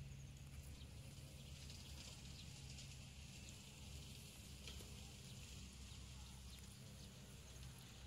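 Faint garden ambience: scattered faint bird chirps over a steady high hiss and a low steady rumble.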